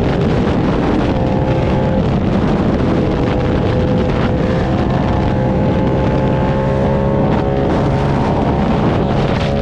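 Motorcycle engine running at a steady cruise, its note drifting only slightly, with wind rushing over the microphone.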